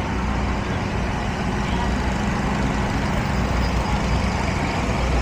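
Steady low engine hum, like a heavy vehicle or motor idling, under a wash of street traffic noise.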